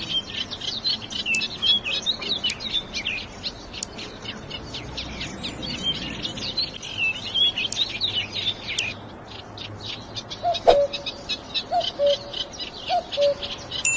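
A dense chorus of small songbirds chirping and twittering, busiest in the first two-thirds. From about ten seconds in, a lower call repeats roughly once a second, and there is one sharp click shortly after.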